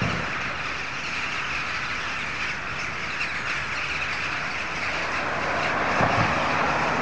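A huge flock of birds calling all at once, a dense unbroken din of many overlapping calls.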